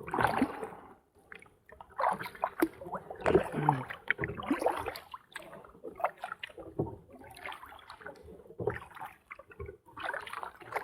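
Kayak paddle strokes in water: irregular splashes and sloshing, one every second or so, with occasional knocks.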